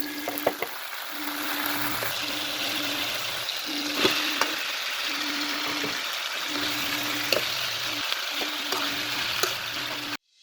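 Food sizzling as it fries in a pan, a steady hiss with a few sharp clicks of a utensil against the pan and a low hum that comes and goes. The sizzle cuts off suddenly just before the end.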